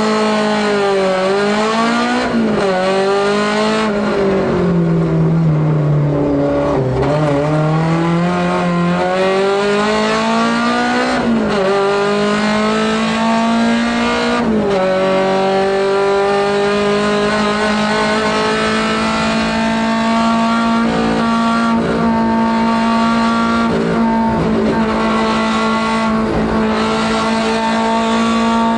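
Ford Escort Mk2 Group 2 race car engine, heard from inside the cabin, accelerating hard from a standing start up through the gears. The engine note climbs and drops sharply at upshifts about two, eleven and fourteen and a half seconds in. It sags for a few seconds around five seconds in, then holds high and nearly steady at full speed.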